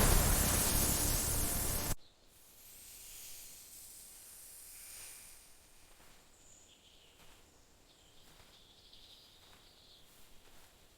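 A loud rushing hiss, the whoosh of a magical portal jump, which cuts off suddenly about two seconds in. It is followed by quiet garden ambience with faint high chirps of birds or insects.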